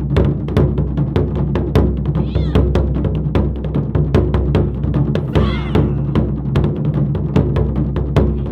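Japanese taiko drum ensemble playing a fast, driving rhythm of hard strikes. Two short rising-and-falling calls cut through the drumming.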